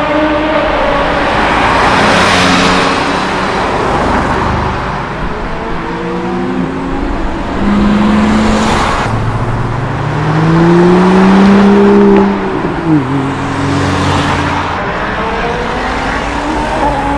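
Several sports car engines one after another as the cars pass and pull away. The loudest engine climbs steadily in pitch about ten seconds in, then drops sharply at a gear change.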